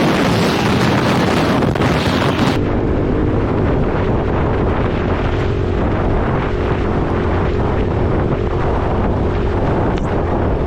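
Single-cylinder four-stroke dirt bike engine running steadily while riding, with heavy wind buffeting on the microphone.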